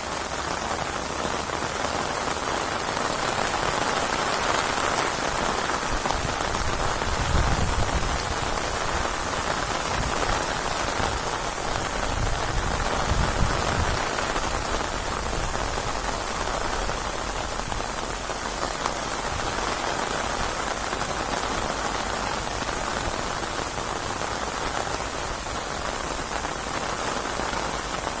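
Steady heavy rain falling, an even hiss of drops, with two brief low rumbles about seven and thirteen seconds in.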